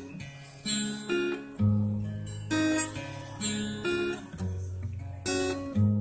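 Instrumental break of a song: acoustic guitar strumming chords about every half second to second, over held low bass notes, with no vocals.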